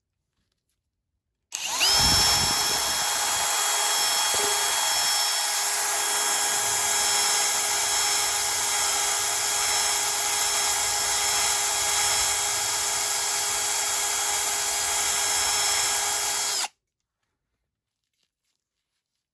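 Electric power tool running at a steady speed with a high whine, starting about one and a half seconds in and cutting off suddenly near the end.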